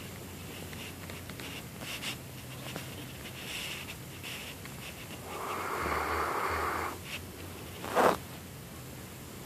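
Siberian husky snoring in its sleep: one long snore about halfway through, then about a second later a short, sharp noise that is the loudest sound here.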